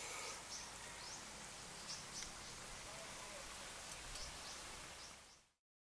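Faint outdoor background with scattered short bird chirps, fading out to silence near the end.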